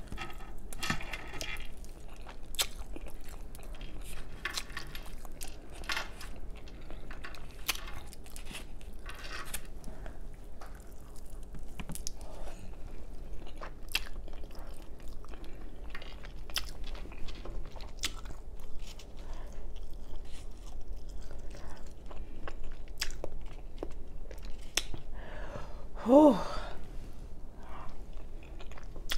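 Close-miked chewing and biting of saucy, seasoned air-fried chicken, with many small wet clicks and crackles of the mouth. Near the end there is one short hummed vocal sound.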